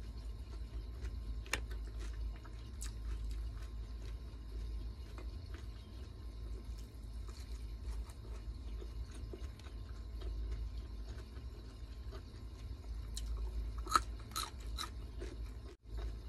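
Close-miked eating sounds: steady chewing with small crisp crunches, and a few sharper crunches near the end, over a low steady hum.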